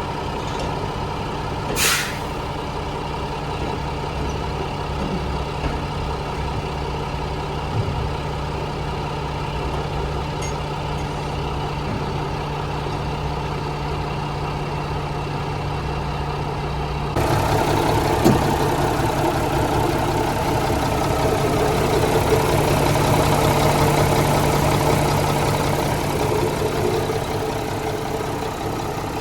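Diesel engine of a 1996 Mack CH613 semi truck running steadily, with a short hiss of air from the air-brake system about two seconds in. About seventeen seconds in, the engine gets suddenly louder and rougher, then eases back a little near the end.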